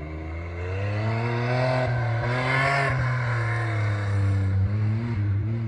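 Off-road 4x4's engine revving hard under load, its pitch climbing and then easing off with the throttle.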